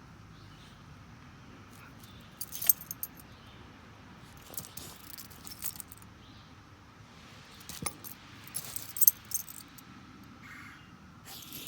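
Metal dog collar tags jingling in three short bursts as the dog moves and lunges.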